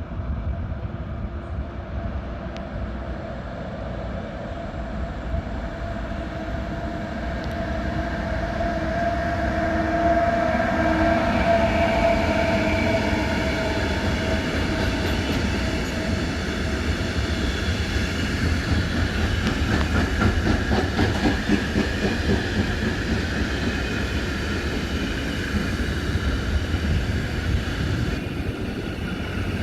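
A train running past on the tracks: a steady rumble with a humming drone that grows louder over the first ten seconds, then a regular clickety-clack of wheels over rail joints about twenty seconds in.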